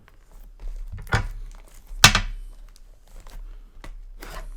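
Plastic shrink wrap on a booster box being torn open and crinkled: three short rips about a second in, two seconds in and near the end, the middle one loudest.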